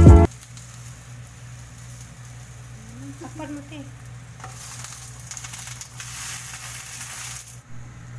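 Cassava pancake batter frying on banana leaves in a pan, a low steady sizzle that grows brighter in the second half and cuts off near the end.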